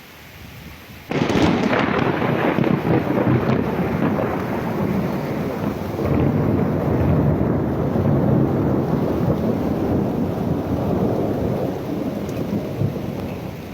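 A thunderclap: a sudden loud crack about a second in, followed by long rumbling that slowly weakens near the end. Rain falls steadily underneath.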